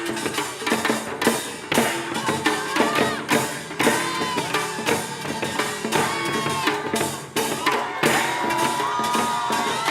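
Korean pungmul percussion ensemble playing: rapid, dense strokes of drums and gongs, with a high melody of held, bending notes over the beat.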